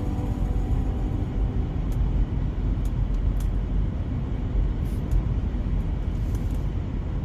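Steady road and engine rumble of a car driving along, heard from inside the cabin, with a few faint short ticks.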